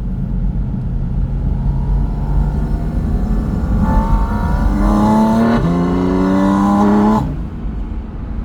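Porsche 718 Spyder RS's naturally aspirated 4.0-litre flat-six accelerating hard, its note climbing steadily in pitch. About five and a half seconds in a quick upshift drops the pitch, then it climbs again until the throttle closes near seven seconds in and the sound falls away.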